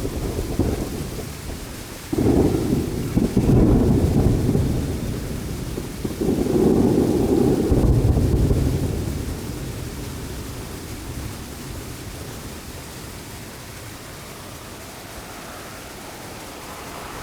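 Fireworks shells bursting in several heavy booms in the first half, each followed by a rolling, echoing rumble. The rumble dies away over the last several seconds.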